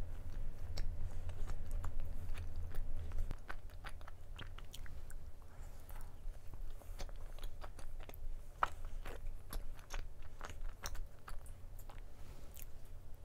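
Close-miked chewing of a chewy chocolate-coated rice cake (chocolate chalddeok), with many small wet mouth clicks.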